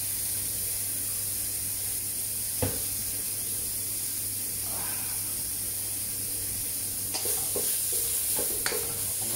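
Tomato, garlic and ginger frying in oil in a wok, a steady sizzle. There is a single knock about two and a half seconds in, and near the end a spatula scrapes and clinks against the wok as the sauté is stirred.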